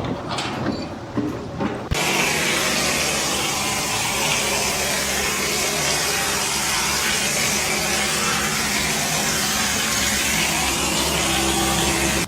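A few knocks, then about two seconds in a loud steady rushing machine noise with a low hum starts suddenly and runs on until it cuts off abruptly.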